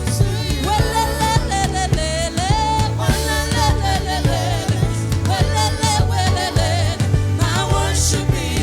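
Gospel worship music from a band: steady bass and a regular drum beat under a melody line that bends up and down.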